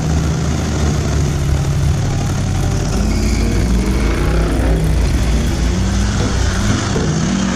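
Off-road 4x4's engine running loud and steady, then revving up and down from about three seconds in.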